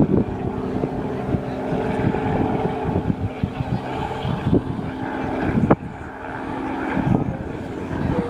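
Helicopter engine and rotor running steadily with a pulsing beat, and wind buffeting the microphone. A sharp click comes a little before six seconds in.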